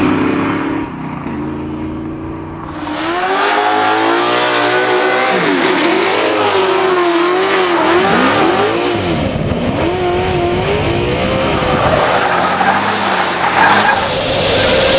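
Car engine revving hard, its pitch swinging up and down again and again. It is quieter for the first few seconds.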